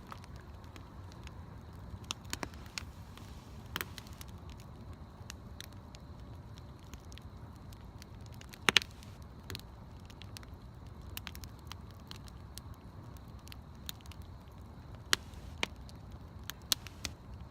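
Wood bonfire crackling, with scattered sharp pops over a low steady rumble; the loudest pop comes about halfway through.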